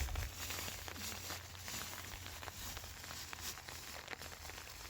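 Steady rain falling, with many small, irregular drop ticks over an even hiss.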